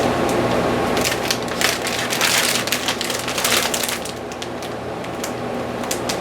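Clear application film being peeled off a vinyl paint stencil, a crackling, crinkling sound that is busiest from about one to four seconds in, over a steady low hum.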